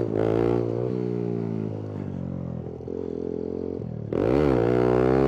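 Kawasaki Z125 Pro's small single-cylinder engine revving hard for clutch-up wheelies: high revs at first that ease off and drop to a lower pitch, then a sharp rev again about four seconds in, held high.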